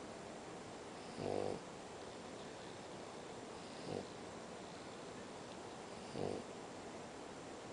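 French bulldog snoring in its sleep: three snores about two and a half seconds apart, the first the longest and loudest.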